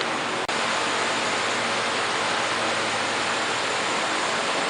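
Steady, even hiss with a very brief dropout about half a second in.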